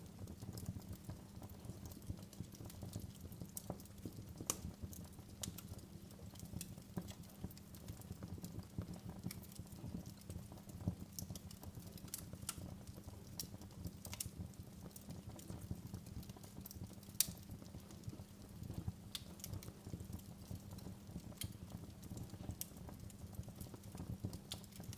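Fire crackling in a fireplace: many sharp, irregular pops and snaps over a low, steady rumble.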